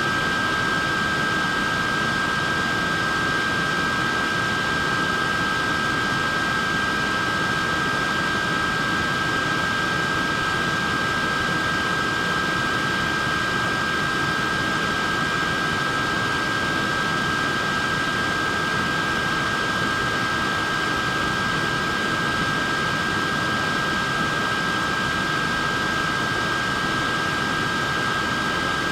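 Portable neck fan running steadily: a constant rush of air with a steady high whine from its small motors.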